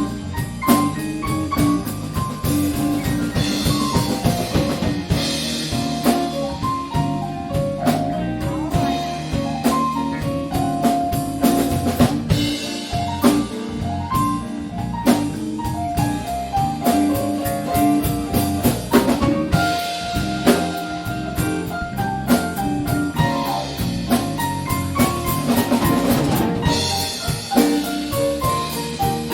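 Live band of keyboards, drums, bass and guitar playing an instrumental passage with no singing. A busy line of short melodic notes runs over the drum kit and bass groove.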